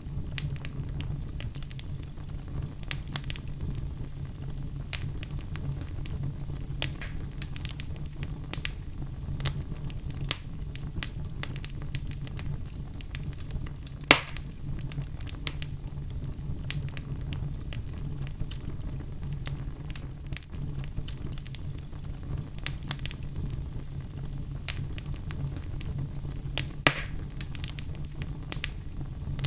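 Wood logs burning in a fireplace, crackling with frequent small pops over a steady low rumble; two louder pops, one about halfway through and one near the end.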